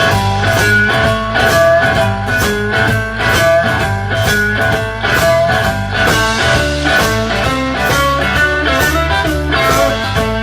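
A band playing a blues-rock tune without vocals: guitar lines over a steady beat.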